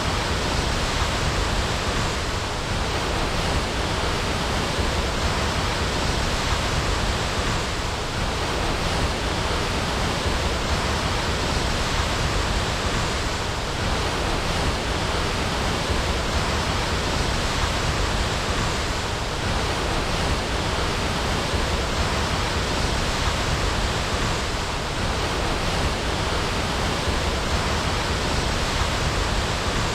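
Waterfall rushing in a steady, even roar of falling water, unchanging throughout.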